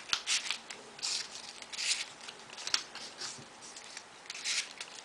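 Folded paper triangular origami modules being slid and pushed into place on a modular origami model: short, dry paper rustles and scrapes at irregular intervals, about a dozen of them.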